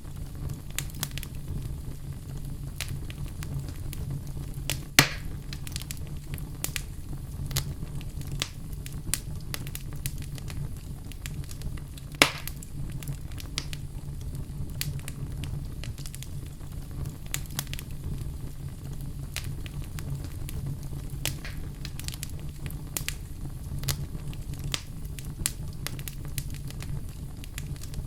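Wood fire burning in a fireplace, crackling with frequent small clicks over a steady low rumble, with two louder pops about five and twelve seconds in.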